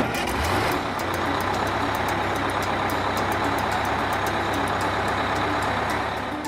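A truck engine running steadily: a low hum under an even rushing noise, starting at once and easing off near the end.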